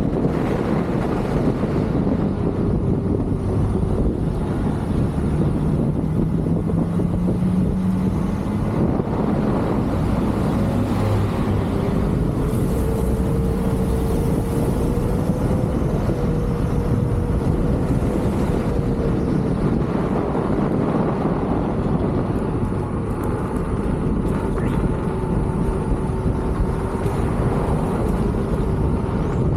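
Leaperkim Lynx electric unicycle's hub motor running at speed: a steady whine that slowly rises and falls in pitch as the speed changes, under a constant rumble of wind on the microphone.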